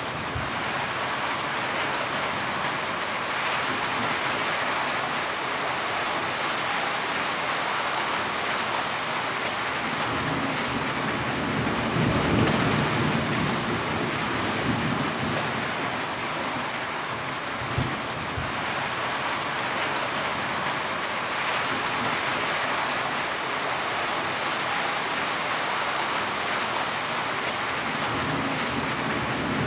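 Heavy rain falling steadily, with low rumbles of thunder about ten to fourteen seconds in, briefly again later, and near the end.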